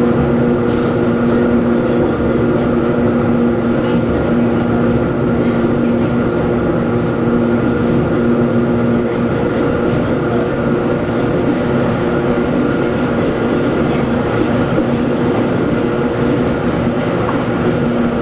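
Hakone Tozan Railway Moha 1 No. 106 running, its nose-suspended SE121-A traction motors and gears giving a steady whine over the rumble of the NA7 bogies on the rails. The lowest tone of the whine fades out about halfway through.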